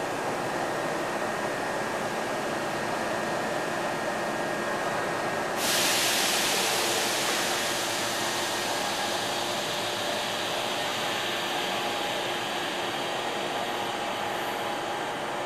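Sotetsu 7000 series electric train standing at an underground platform, its equipment humming steadily, with a sudden loud hiss of compressed air from the train about five and a half seconds in that fades slowly over several seconds.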